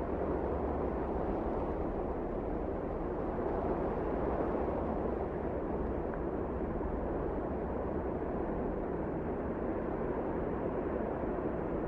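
Wind of a snowstorm blowing steadily: a continuous rushing noise with a low rumble underneath.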